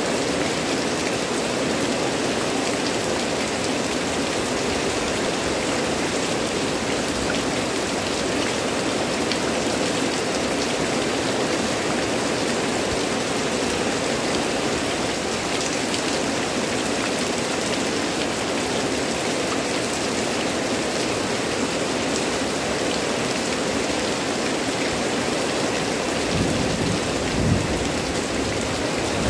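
Heavy rain pouring steadily on foliage and ground, a dense even hiss. Low rumbling builds near the end, with one short thump.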